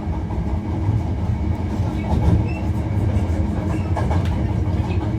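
Hankyu 1300 series electric train heard from inside the car while running between stations: a steady low rumble of wheels on rail, with a few faint clicks from the track.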